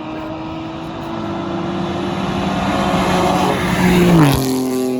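A car racing past at speed: its engine runs at a steady high note, growing louder as it approaches, then about four seconds in the pitch drops sharply as it passes and moves away.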